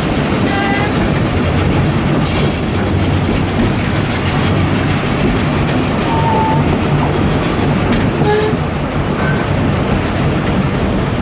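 Narrow-gauge railway carriage running along the track, its wheels and running gear making a steady, even noise.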